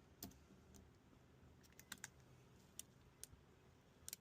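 Near silence broken by about eight faint, sharp, scattered clicks and ticks from fingers handling a vinyl sticker and its transfer tape.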